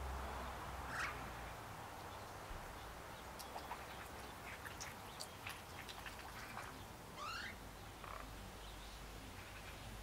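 Wild birds calling: one call about a second in, a scatter of short high chirps and ticks through the middle, and a rising call of several quick notes at about seven seconds.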